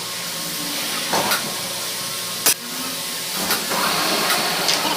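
Steady hiss with a few knocks, the sharpest and loudest about halfway through.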